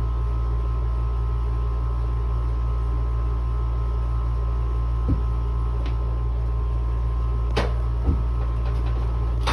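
Air conditioner running: a steady low hum with a faint steady whine over it, and a few light clicks around five and eight seconds in.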